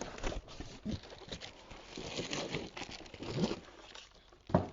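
Packaging rustling and scraping as a parcel is opened and its contents handled, with irregular light knocks and a sharper knock near the end.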